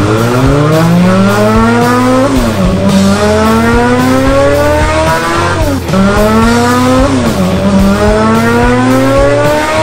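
Sportbike engine sound effect accelerating through the gears: the pitch climbs steadily and drops back at each shift, three shifts in all, loud.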